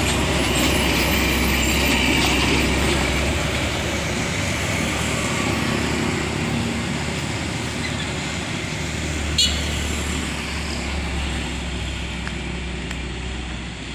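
Heavy trucks running on the road: a steady low engine drone with tyre and road noise, easing slowly toward the end. A sharp click about nine and a half seconds in.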